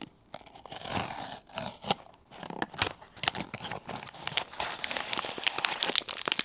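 A Pop Mart blind box being opened by hand: its packaging torn and crinkled in a run of irregular crackles and rips.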